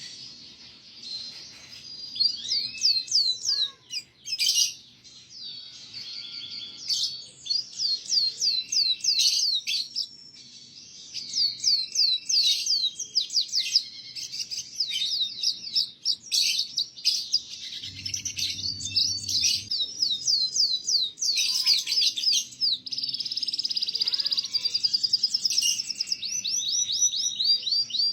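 Domestic canary singing a long, unbroken song of rapid trills and quick repeated chirps, the kind of loud tutor song used to teach young canaries to sing.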